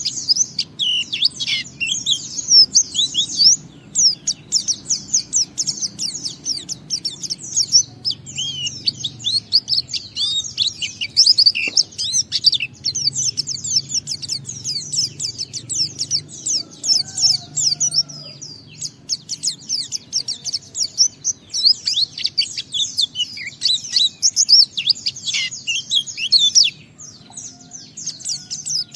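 White-eye (pleci) singing a fast, almost unbroken run of high twittering notes, the long continuous song that keepers call ngalas. There is a short pause near the end.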